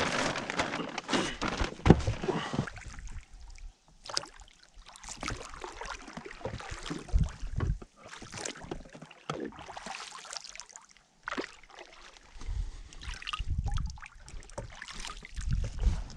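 Water splashing, sloshing and dripping with irregular knocks against a small boat, as a fishing net is hauled in by hand over the side.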